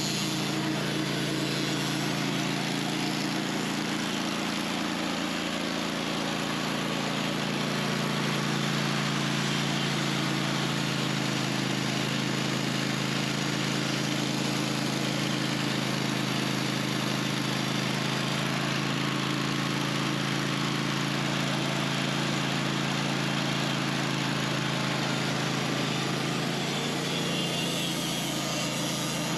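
Sawmill engine running steadily, with a slight rise in pitch about five seconds in.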